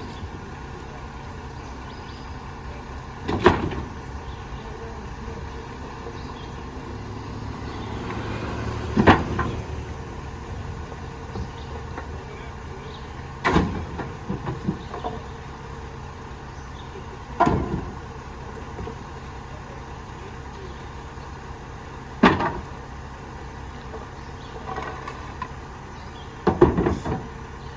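McNeilus rear-loader garbage truck running while its packer compacts bulky trash, with a sharp bang or crack about every four to five seconds over the steady engine hum.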